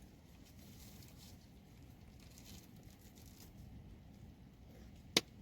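Steady light rain patter, with one sharp knock about five seconds in.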